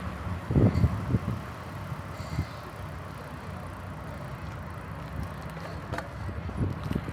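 Bicycle being ridden: steady rumble of the tyres and frame on the path, with a few bumps about half a second to a second in and a sharp click near the end.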